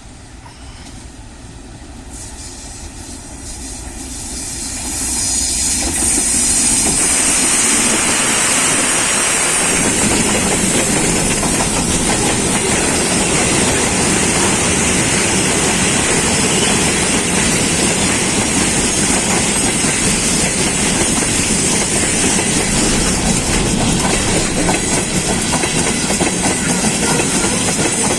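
Freight train hauled by a DF7G-C diesel-electric locomotive arriving. It grows louder over the first six seconds as it approaches, then keeps up a steady, loud rolling noise with wheel clickety-clack as it passes.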